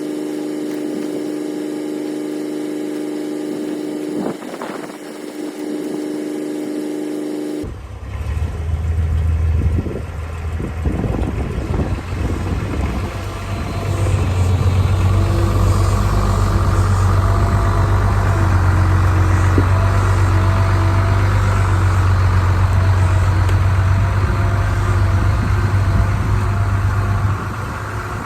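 Farmall 666 tractor engine running. About eight seconds in, the sound changes abruptly to a deeper, louder engine note, which grows louder again about fourteen seconds in and drops back near the end.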